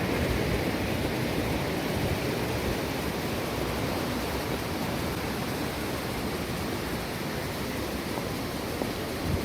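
Steady rush of flowing stream water, with a small knock near the end.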